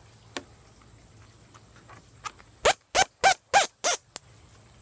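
A fowl-like bird calling five times in quick succession about halfway through, loud and close, each call rising and falling in pitch.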